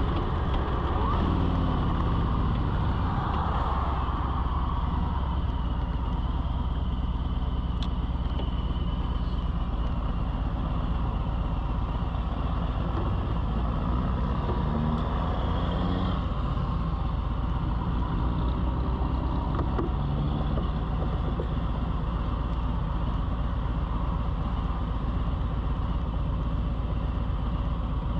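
Steady low rumble of a motor vehicle running, with faint pitched tones that shift briefly a few times.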